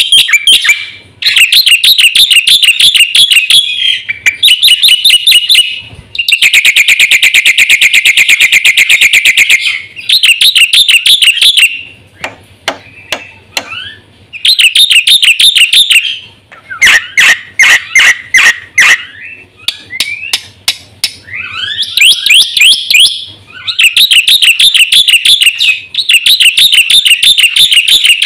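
Black-winged myna singing loudly in repeated phrases of fast, shrill chattering notes broken by short pauses, with a long rattling phrase about six seconds in and sharper single calls in between.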